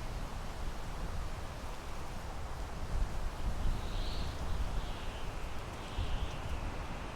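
Wind blowing through pine trees: a steady rushing hiss of the needles and branches, over a low rumble that swells and eases with the gusts.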